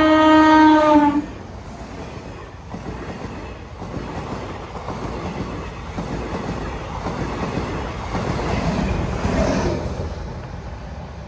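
An Indian Railways passenger train's horn sounds a loud steady note that cuts off about a second in. Then the coaches pass close by, wheels rumbling and clattering on the rails, the noise fading near the end.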